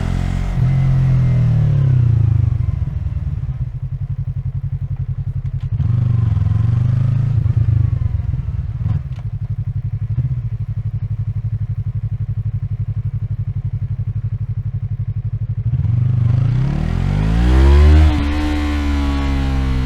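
Yamaha MT-03's 321 cc parallel-twin engine at low revs while riding slowly in traffic, with short throttle blips. Near the end it revs up strongly, drops suddenly in an upshift, and pulls again.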